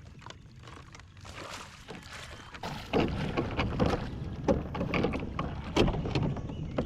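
Water splashing and knocks against a kayak as a hooked small catfish is fought and brought alongside. It grows much louder about three seconds in.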